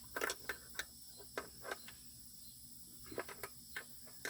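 Irregular sharp clicks of a wrench working a nut and bolt tight on a chicken plucker's frame, about five in the first two seconds and a few more after a pause.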